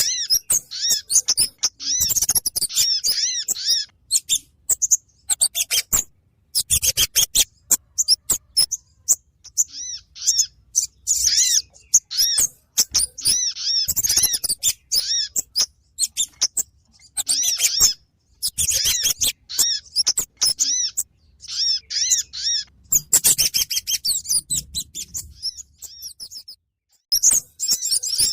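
Bird-lure recording of kemade and sogon calls: bursts of fast, high, arched chirping notes mixed with sharp ticking notes, broken by short pauses.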